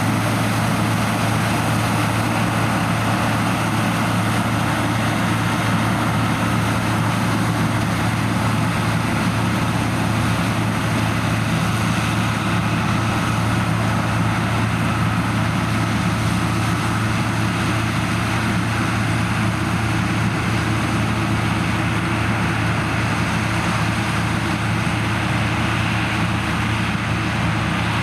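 Heavy diesel farm machinery running steadily through a corn harvest: a constant low engine hum under a dense, even mechanical drone.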